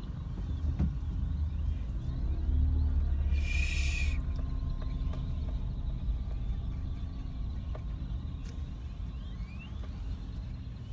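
Birds calling over a steady low rumble, with a short hiss-like burst about three and a half seconds in and a few faint rising chirps near the end.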